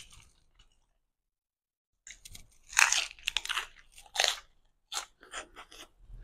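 Close-miked chewing with crunchy bites. After a short quiet gap, the crunching is loudest from about two seconds in, then gives way to a run of shorter chewing sounds.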